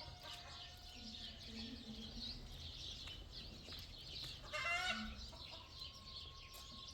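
Chickens clucking and chirping, with one louder call about four and a half seconds in.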